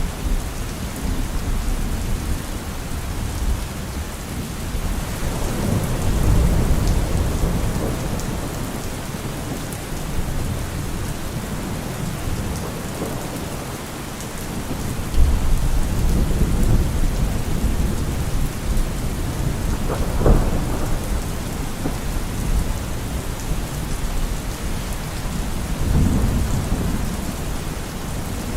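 Steady rain falling, with thunder rumbling several times: a long low roll about a quarter of the way in, a sudden rumble about halfway through, a sharper clap about two-thirds in and another roll near the end.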